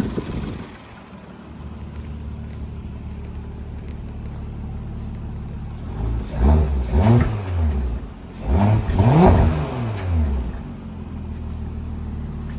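Porsche Macan S turbocharged V6 idling after a cold start, then revved in two sets of quick throttle blips about halfway through, the pitch rising and falling with each blip before it settles back to a steady idle.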